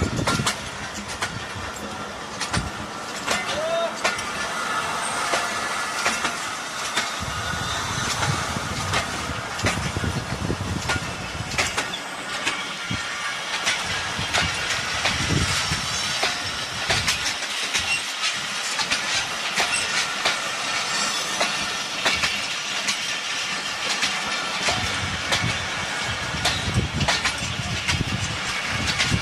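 Jaffer Express passenger train rolling past, with a steady rumble and frequent sharp clicks of wheels clattering over the rail joints.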